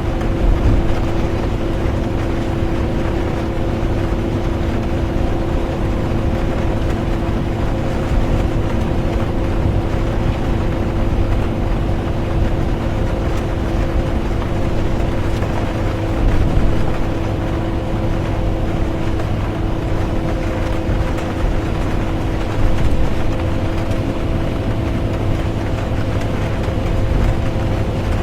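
Bus interior ambience: the engine and road noise rumble steadily with a constant hum, under an even hiss of rain. A few small bumps in loudness come from the ride.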